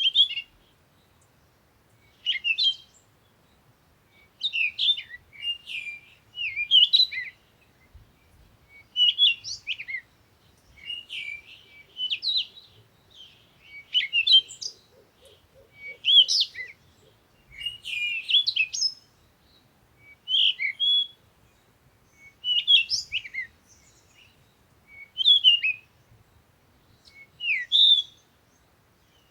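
Songbirds chirping and singing in short, quick, warbling phrases, one every second or two, with brief pauses between them.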